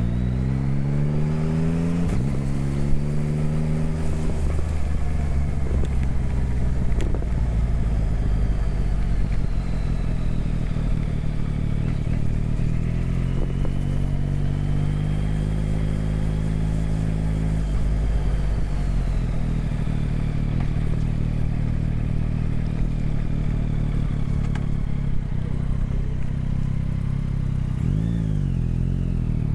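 Motorcycle engine being ridden on the road: it pulls up through the revs with two quick gear changes near the start, cruises, then accelerates again midway with another shift, and starts climbing once more near the end, over a steady low rush of wind and road noise.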